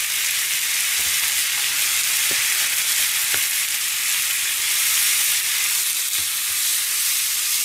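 Bone-in chicken thighs sizzling steadily in hot oil in a frying pan as their skin is seared, with a couple of faint clicks.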